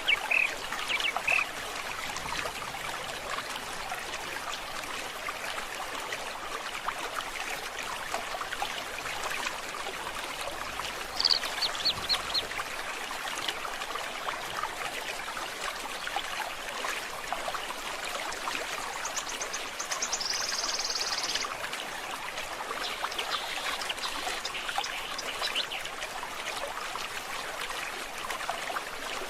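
Forest stream trickling steadily, with birds calling over it: a few short calls at the start, a quick run of high notes about eleven seconds in, and a high buzzing trill around twenty seconds.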